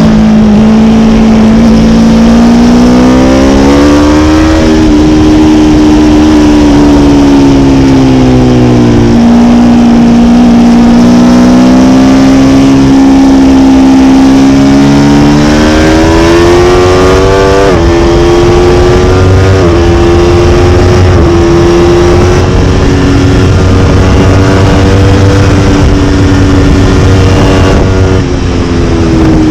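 Aprilia Tuono motorcycle engine pulling hard at speed, its note rising and falling with the throttle. Several quick upshifts in the second half each drop the pitch suddenly, with wind noise underneath.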